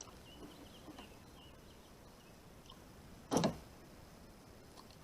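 Mostly quiet background with faint high chirping in the first couple of seconds, then a single short thump about three and a half seconds in.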